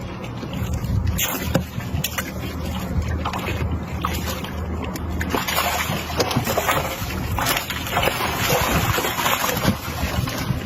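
A boat's engine runs with a steady low hum, under a rushing hiss of water and wind that grows louder from about five seconds in, with scattered small knocks.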